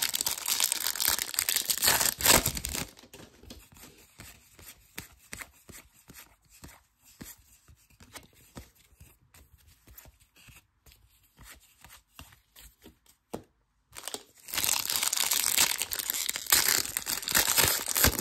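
Baseball card pack wrapper being torn open and crinkled for the first few seconds, then a long quieter stretch of light clicks and rustles as cards are handled. A second wrapper is torn and crinkled loudly from about two-thirds of the way in.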